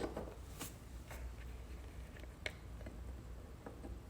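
A few faint clicks and light handling noises from trading cards and their holders, over a low steady hum.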